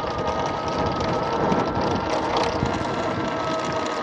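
Wind rushing over the microphone while riding an electric motor scooter, with the motor's steady high whine rising slightly in pitch.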